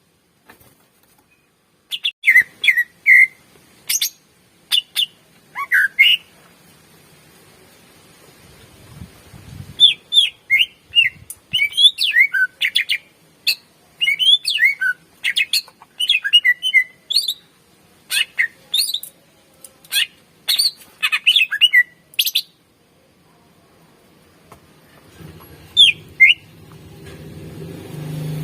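Cucak ijo (green leafbird) singing in quick phrases of sharp whistled and chirping notes. A few short phrases come early, then a long, dense run of song, a short pause, and more song near the end. A low hum rises under it in the last few seconds.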